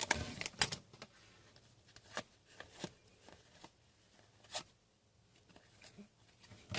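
Trading cards being handled and flipped through by hand: a soft rustle at first, then scattered light clicks and taps of card on card.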